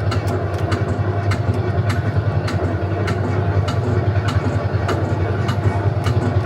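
Metallbau Emmeln tractor-ride vehicle running along its track: a steady low hum with scattered, irregular sharp clicks.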